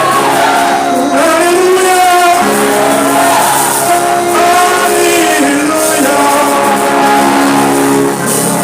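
Worship music: sustained keyboard or organ chords, changing chord a couple of times, with a voice singing over them.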